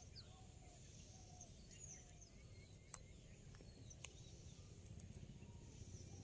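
Near silence: faint bird chirps over a low background rumble, with two sharp clicks, about three and four seconds in.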